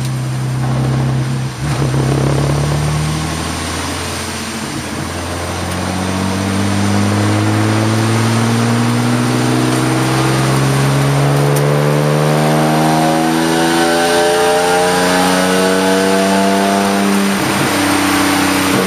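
Race car's engine heard from inside the cabin, pulling hard under acceleration with its pitch climbing slowly through a long gear. It lifts briefly about a second and a half in, and near the end the pitch drops at a gear change and starts climbing again.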